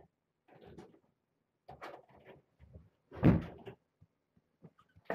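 Knocks, bumps and rustles of things being handled and moved, with a louder thump a little over three seconds in.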